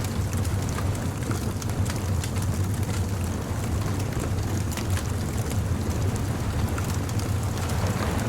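Bonfire crackling, with many small sharp pops and snaps scattered over a steady low rumble.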